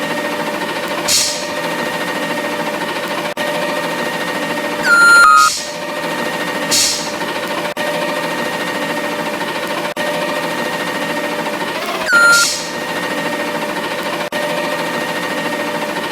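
Garbage truck running with a steady mechanical hum, broken by several short hisses of air, the loudest about five and twelve seconds in, each with a brief tone just before it.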